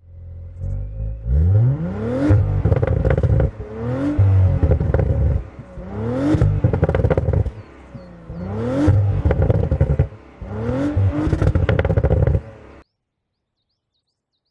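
Audi RS 5 Coupé engine revving hard about five times in a row. Each time the pitch rises quickly, holds briefly, then drops away. The sound cuts off suddenly near the end.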